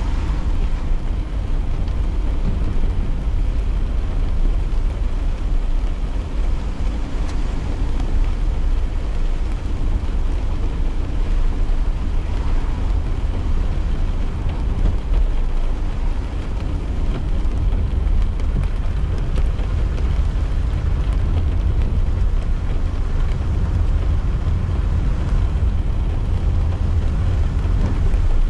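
Steady low rumble of a car's tyres and engine on a wet road, heard inside the cabin while driving, with a soft hiss of light rain on the car.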